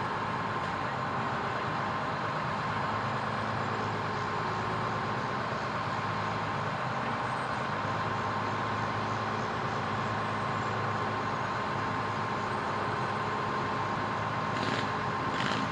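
Fire truck engine running steadily under a constant hum, with two short hisses near the end.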